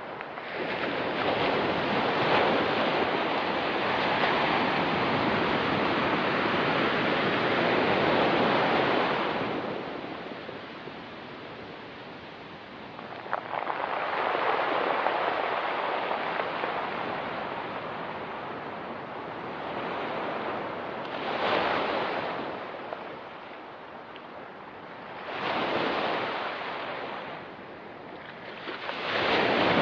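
Ocean surf breaking and washing up a rocky, pebbly shore in repeated surges: a long wash in the first ten seconds, another in the middle, then three shorter surges near the end.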